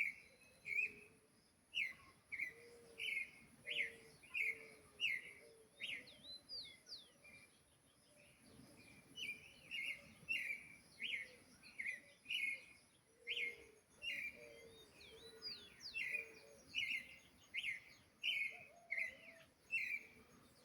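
A sabiá (Brazilian thrush) singing: a long run of short, loud chirping notes, about two a second, with a lull partway through before the phrases resume. Fainter gliding whistles sound higher up in between.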